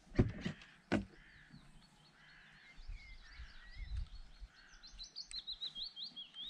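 Small songbirds singing and chirping, with a fast run of high notes near the end. Two sharp knocks come near the start.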